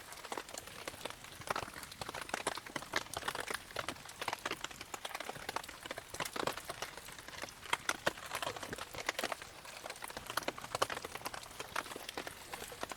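Wood campfire crackling and ticking irregularly, many small sharp pops over a steady hiss, with rain pattering.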